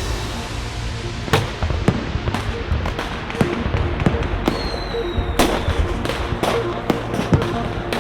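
Triplex Blizzard TXB401 category F3 firework battery firing: a string of sharp bangs, roughly one every half second to second, with electronic music playing under it.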